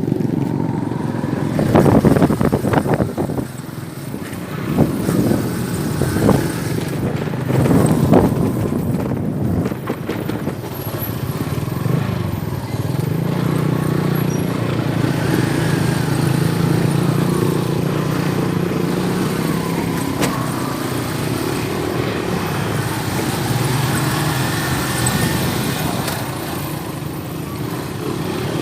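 Motor vehicle engine running steadily, with several loud knocks or bumps in the first eight seconds or so.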